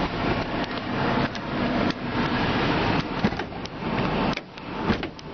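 2000 Ford F150's 4.2 V6 idling steadily just after a cold start in below-freezing cold, with the heater fan running on full. A few light knocks sound over it.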